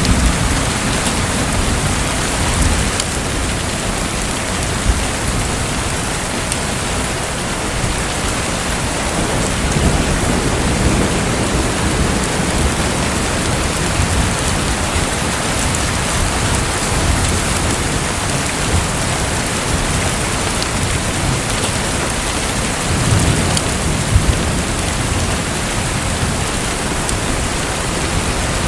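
Steady rushing and splashing water noise, with a few low rumbling swells.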